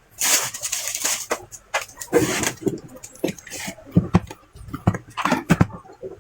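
Hands handling objects on a workbench: two spells of rustling and scraping, then a series of scattered sharp clicks and knocks.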